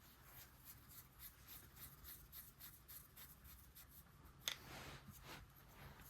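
Faint, quick ticks and light scratching of small metal carburetor parts being handled and fitted on a workbench, with one sharper click about four and a half seconds in.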